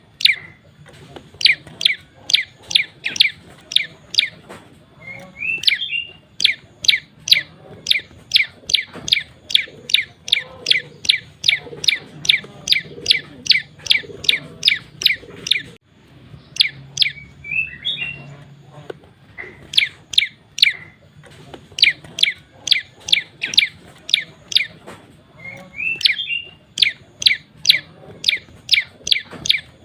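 Male prenjak lumut, a small Indonesian songbird, calling in a fast run of sharp, high notes repeated about three a second, broken by short pauses around five and sixteen seconds in, with an occasional twisting chirp in between.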